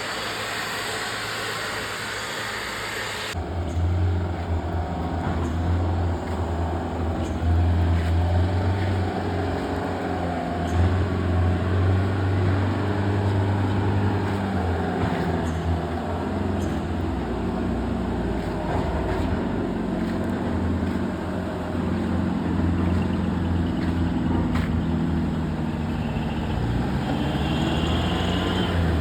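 A heavily loaded truck's diesel engine running hard, its low pitch wavering up and down. It is preceded by a few seconds of steady road noise that cuts off abruptly about three seconds in.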